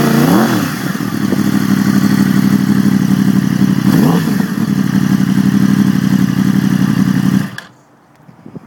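2010 Yamaha R1's crossplane inline-four idling through a Competition Werkes stainless slip-on exhaust. There is a quick throttle blip at the start and another about four seconds in. The engine sound stops abruptly about seven and a half seconds in.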